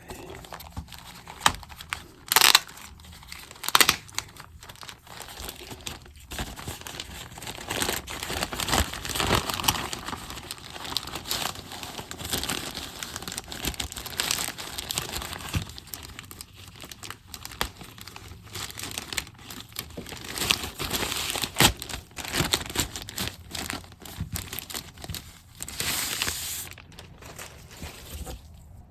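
Plastic packaging and tape being torn and crumpled while a replacement laptop keyboard is unwrapped, in irregular rustles with a few sharper rips, the loudest a few seconds in.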